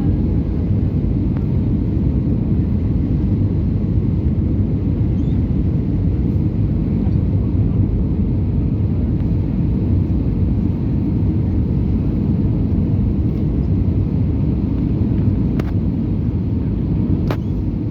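Steady low rumble of an Airbus A320-200's engines and rushing air heard inside the passenger cabin, with two faint clicks near the end.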